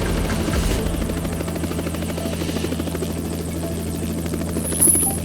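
Helicopter running with a steady low drone and fast rotor chop, and a brief high-pitched tone near the end.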